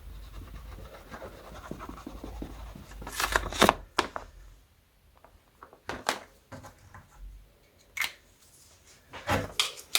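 Felt-tip marker scratching over the surface of a rubber balloon as a face is drawn on it, followed about three seconds in by a couple of louder rustling knocks and then a few scattered light clicks as things are handled.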